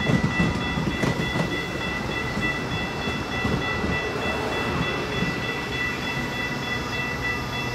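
Metra bilevel commuter coaches rolling past at speed: a steady rumble of steel wheels on rail, with a couple of sharp clicks over rail joints about a second in and a steady high-pitched tone above it.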